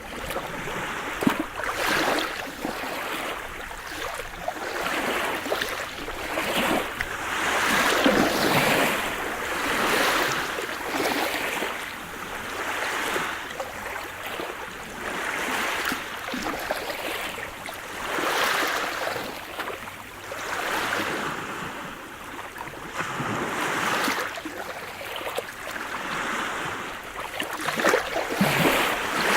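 Sea surf: waves breaking and washing in, a rushing sound that swells and falls every two to three seconds.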